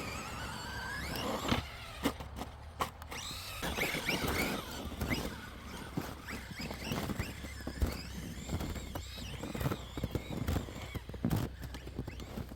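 Electric RC truck's motor whining, its pitch rising and falling again and again with the throttle, with scattered knocks.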